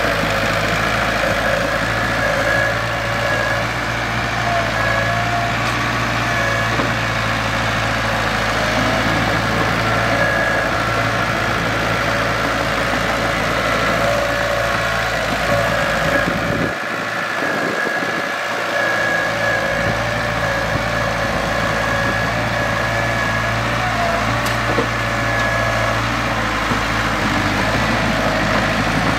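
Mitsubishi BD2G bulldozer's diesel engine running steadily while the dozer works.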